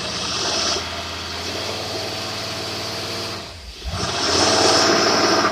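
Marine engine with a rebuilt Carter AFB four-barrel carburetor running in gear as the throttle is opened. It drops back briefly about three and a half seconds in, then comes up louder again.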